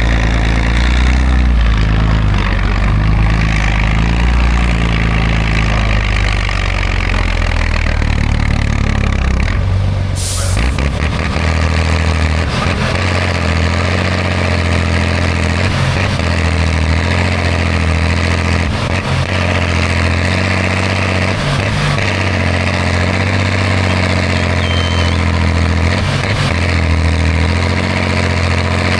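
Heavy off-road trial truck's diesel engine running steadily, its low note shifting about ten seconds in, with a short burst of hiss just before the shift.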